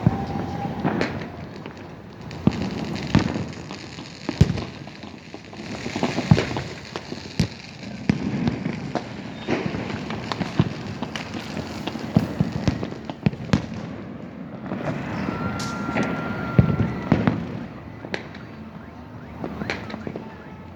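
Fireworks going off on New Year's night: many irregular bangs, some near and loud, others distant, over continuous crackling. A short steady whistle sounds about three-quarters of the way through.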